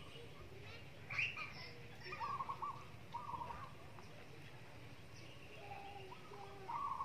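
Birds calling in short, repeated trilling phrases, one every second or so, over a steady low background noise.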